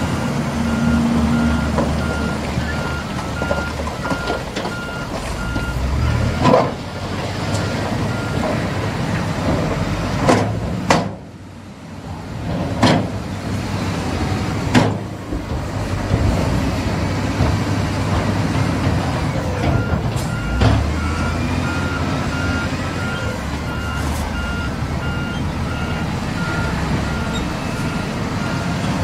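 A diesel dump truck running with its reversing beeper sounding in rapid, even pulses for the first several seconds and again through the last stretch. Several sharp knocks come in between, typical of rock being dumped or pushed.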